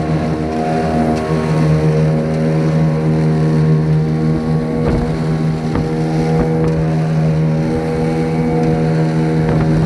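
A dinghy's outboard motor running steadily under way at an even pitch. A few sharp knocks come about five to six seconds in, which fit the hull slapping into chop.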